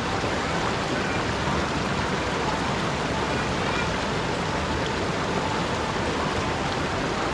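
Steady rushing of a forest stream's water flowing over rocks and a small fall.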